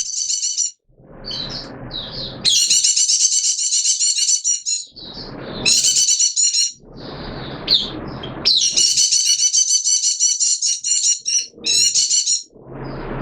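White-eye singing: long, rapid, high-pitched twittering phrases, two of them lasting a few seconds each, broken by shorter calls. Between phrases there are spells of a lower rustling noise.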